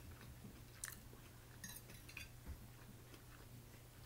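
Faint close-up chewing of a mouthful of food, with a few soft clicks, over a low steady hum.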